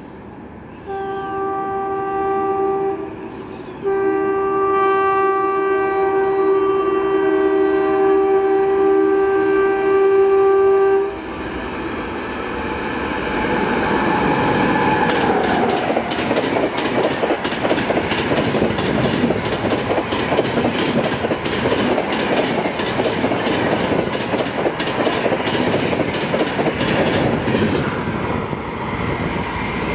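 WAP-7 electric locomotive's horn sounds twice as the Shatabdi Express approaches: a short blast, then a long one of about seven seconds. After that the train passes at speed, with a steady rush and a rapid clatter of wheels over the rail joints to the end.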